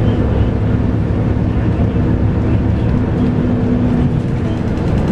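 Scania K230UB bus's 8.9-litre five-cylinder diesel running under way, heard from inside the bus: a steady low engine drone that shifts slightly in pitch near the end.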